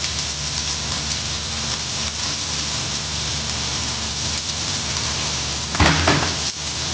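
Food sizzling in a frying pan, a steady hiss. A short clatter of cookware comes near the end.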